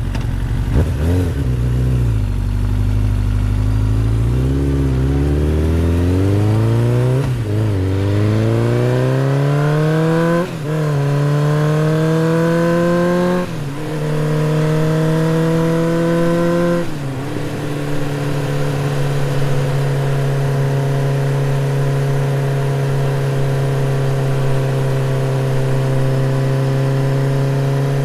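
BMW GS motorcycle engine accelerating up through the gears, its pitch climbing in each gear and dropping briefly at each of about five upshifts. A little past halfway it settles to a steady cruise.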